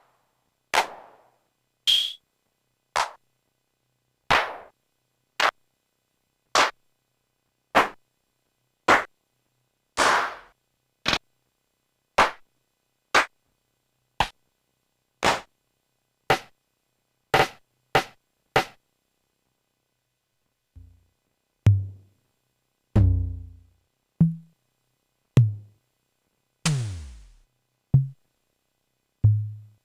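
MFB-501 Pro drum machine playing its stored drum samples one at a time, about one hit a second. The first hits are short and bright, some with a hissy tail; after a brief gap near the middle come deep, booming low hits, one with a falling pitch.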